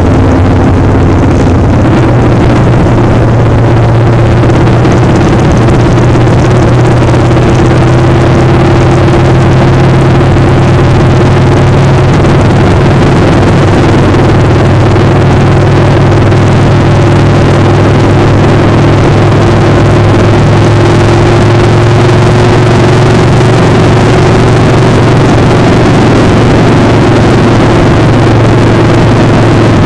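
Motorcycle engine running at a steady speed, its pitch holding nearly level, under a loud constant rush of wind on the microphone.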